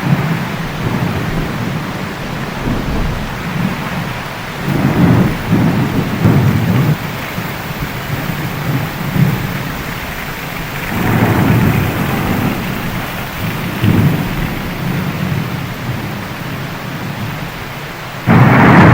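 Heavy rain falling steadily with rolling thunder: several low rumbles swell and fade, and a sudden loud thunderclap breaks near the end.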